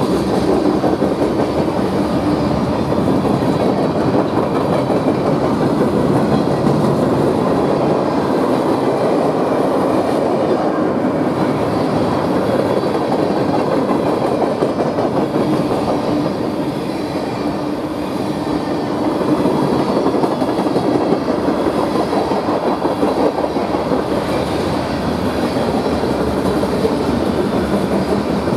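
Freight train cars, tank cars followed by covered hoppers, rolling steadily past close by, their wheels running loudly on the rails.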